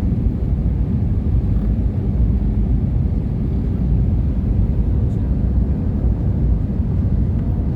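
Cabin noise inside an Airbus A320 rolling on the ground just after landing: a loud, steady low rumble of the engines and landing gear.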